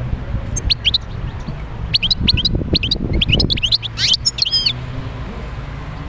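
European goldfinch singing: a rapid run of twittering chirps and short rising and falling notes that starts just under a second in and stops about two-thirds of the way through, over a steady low rumble.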